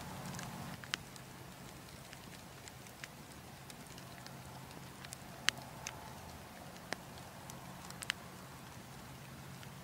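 Wood fire crackling: a steady low rush of burning with scattered sharp pops, about half a dozen, the loudest about halfway through.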